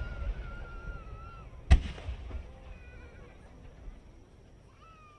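Aerial firework shell bursting with one sharp, loud boom that rumbles and echoes away. It follows the fading rumble of an earlier burst, and faint whistling tones sound in between.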